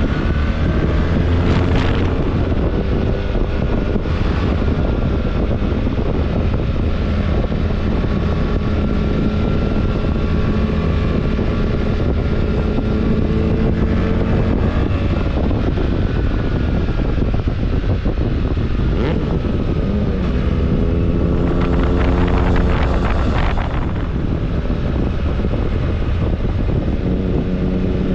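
BMW R1300GS boxer-twin engine under way, its pitch climbing and dropping as the bike accelerates and shifts, with wind buffeting the microphone.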